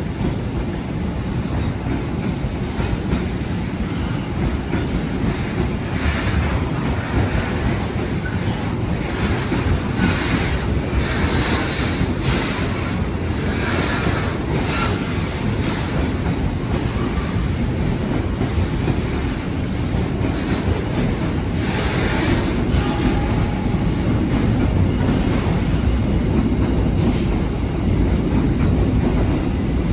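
Container freight train's wagons rolling past over the rails: a steady rumble with wheel clatter and short bursts of wheel squeal, and one sharp high squeal near the end.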